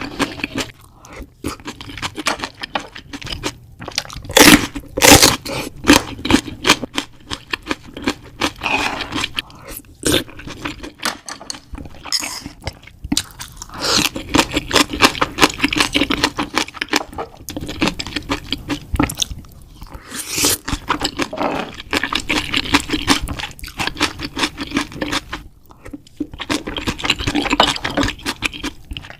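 Close-miked eating sounds: a person chewing and crunching food, with scraping and dense wet clicks throughout, loudest about five seconds in.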